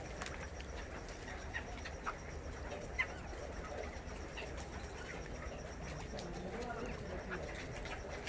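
Flock of chukar partridges calling, many short overlapping chirps and clucks, with a sharp click about three seconds in.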